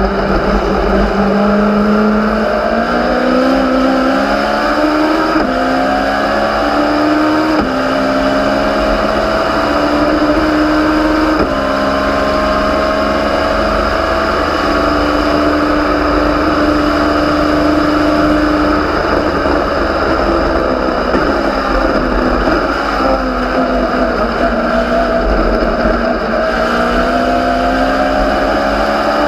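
A Legends race car's Yamaha motorcycle engine at racing speed, heard from on board: the revs climb and drop sharply at each quick upshift, hold steady for several seconds, fall away for a few seconds, then climb again near the end.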